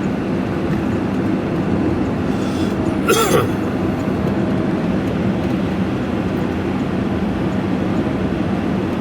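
Steady engine hum and road noise inside the cab of a vehicle moving at a steady speed. About three seconds in there is one short cough.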